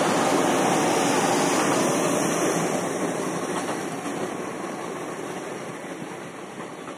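Passenger train running along the platform, heard from an open coach door: a steady rush of wheels on rail that gradually gets quieter as the train slows on arrival.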